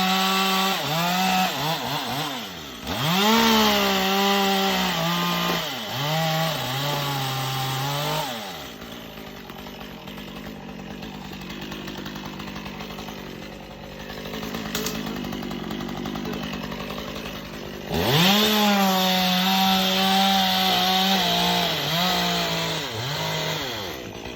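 A two-stroke chainsaw revving up and cutting, its engine pitch sagging and recovering under load. It drops to a quieter idle for several seconds in the middle, then revs up sharply again near the end.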